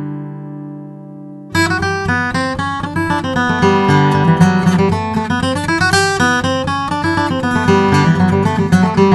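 Martin Custom Shop D-18 12-fret dreadnought acoustic guitar, with an Adirondack spruce top and mahogany back and sides, played solo. A chord rings out and fades, then about a second and a half in a busier passage of picked notes and strummed chords starts abruptly.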